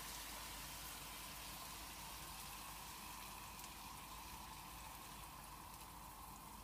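Faint, steady sizzle of chicken pieces, onions and raisins frying in a pan, easing slightly as cream is poured over them.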